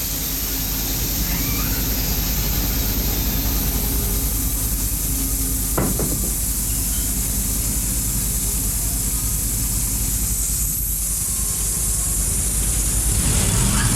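Wood-Mizer band sawmill cutting a walnut log: a steady, loud hiss of the blade in the wood over the low hum of the mill, with one sharp click about six seconds in.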